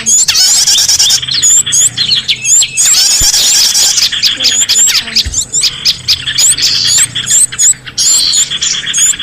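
Dense chorus of small songbirds chirping and calling rapidly over one another, high-pitched with many quick rising and falling notes: a bird-lure recording mixing several small-bird species, used to draw wild birds in.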